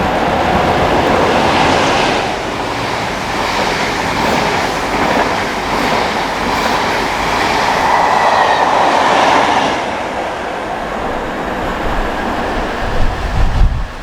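Train running through at speed without stopping: a steady rush of wheel and rail noise that eases off after about ten seconds.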